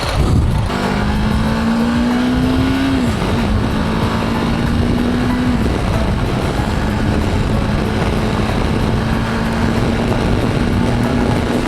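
BMW G310GS motorcycle's single-cylinder engine running at road speed under steady wind rush. Its note climbs slowly and drops suddenly twice, about three and five and a half seconds in, as it shifts up, then holds steady.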